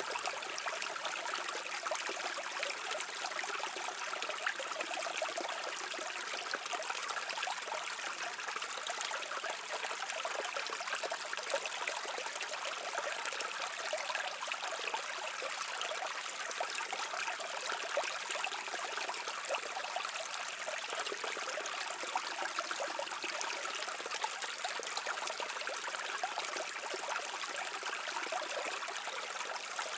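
A brook flowing steadily, a continuous rush of water with fine trickling and splashing through it.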